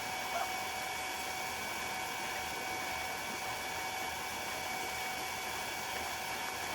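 Steady, even background hiss with a faint, constant high whine; no calls or knocks stand out.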